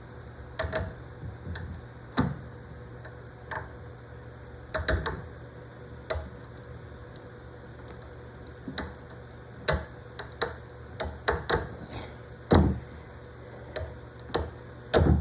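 Irregular clicks, knocks and scrapes as stainless steel wire cloth spot-welded to a stainless steel piece is torn off in a destructive test of the welds, the strongest knocks coming near the end.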